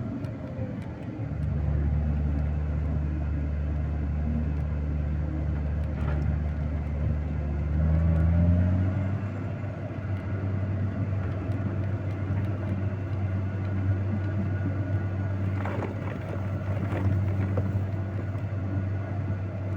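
Vehicle engine running steadily while driving. About a second in the note deepens under load, then rises around eight seconds in and settles back to a steady run.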